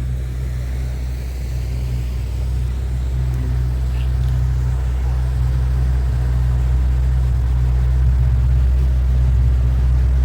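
Motorboat engine running steadily underway, a low drone that slowly grows louder.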